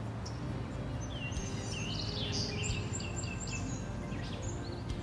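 Songbirds singing: many short chirps and quick gliding whistles, busiest in the middle, over a steady low background rumble.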